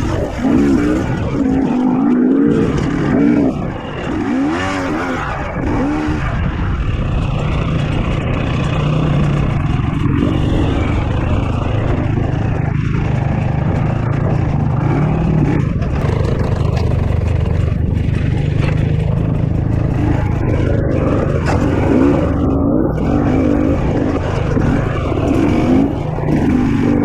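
KTM 250 XC-W two-stroke dirt bike engine worked on and off the throttle at low speed, its pitch rising and falling as it is revved, with a steadier stretch in the middle.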